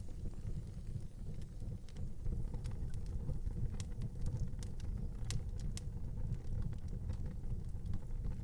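Fire burning in a fireplace: a steady low rumble with scattered sharp crackles and pops, a few louder ones a little past the middle.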